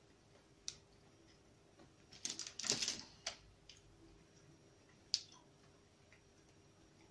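Faint chewing of a soft chocolate-caramel cookie, with scattered wet mouth clicks. A plastic biscuit packet crinkles for about a second a couple of seconds in, the loudest sound.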